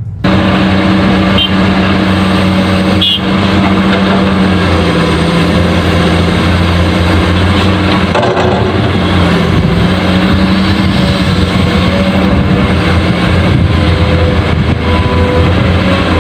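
Truck engine running steadily, a low, even hum that starts abruptly.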